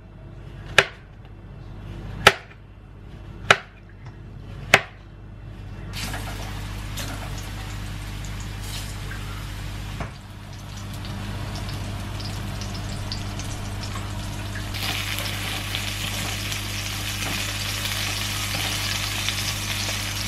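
A knife cutting through ripe plantain, striking the cutting board four times with sharp knocks. Then plantain slices sizzling as they fry in oil in a pan, the sizzle growing louder and brighter about fifteen seconds in, over a faint steady low hum.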